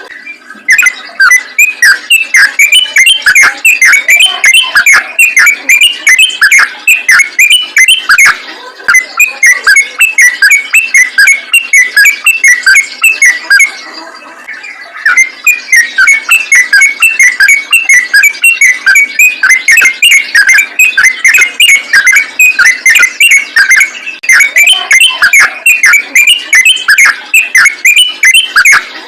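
Sooty-headed bulbul (trucukan) singing a rapid, non-stop 'ropel' song of quick chirping notes, with a short break about halfway.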